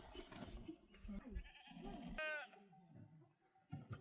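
A goat bleating: one short call that falls in pitch about two seconds in, among faint low rustling and murmur.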